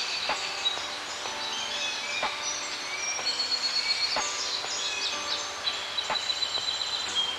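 Forest ambience with many birds chirping and singing in overlapping short calls and whistles, over a steady background hiss. A short sharp sound recurs about every two seconds underneath.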